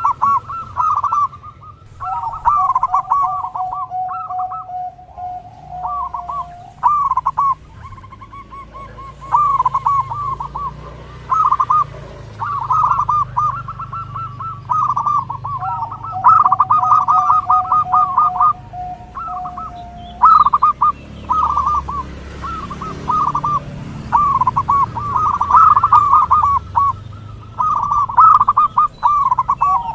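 Zebra doves (perkutut) cooing: repeated bursts of quick rolling notes, with more than one bird overlapping. Twice a long, steady, lower tone is held for about four seconds.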